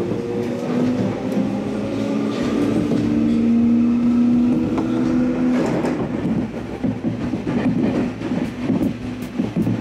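Electric train pulling away from a station, heard from inside the carriage: a steady motor hum for the first five seconds or so, then the wheels clattering over rail joints and points as it gathers speed.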